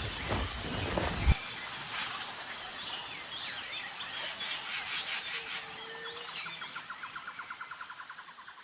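Natural outdoor ambience of bird chirps over a steady high insect buzz, with a rapid pulsing insect trill joining in the second half and the whole fading out near the end. It opens with loud low rumbling noise that cuts off suddenly about a second in.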